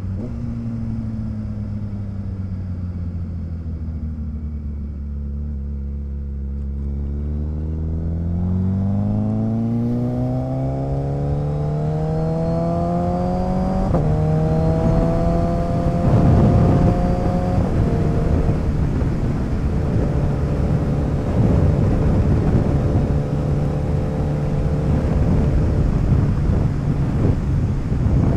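Motorcycle engine ridden through a turn: it winds down and runs low for several seconds, then accelerates with rising pitch, shifting up about halfway through and again a few seconds later, then cruises steadily. A rush of wind noise builds once it is up to speed.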